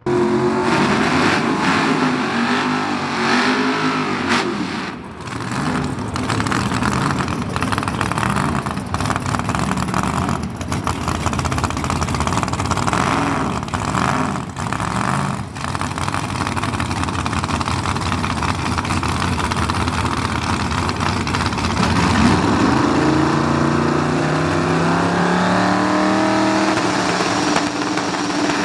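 Drag-race car engine revving hard and running at high rpm, its pitch climbing steadily in the last few seconds.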